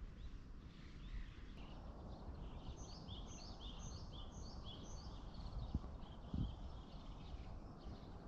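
A bird calls a quick run of short, repeated chirps over a steady low outdoor rumble, with a couple of soft knocks shortly after.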